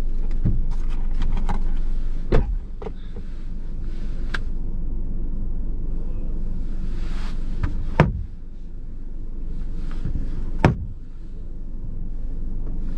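Car interior with the engine idling: a steady low hum, broken by three sharp thumps about two, eight and ten and a half seconds in.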